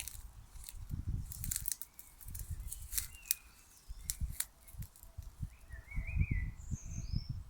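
Songbirds chirping in short calls, which cluster into a busier phrase about six seconds in. Underneath are irregular low rumbling gusts and a few sharp clicks.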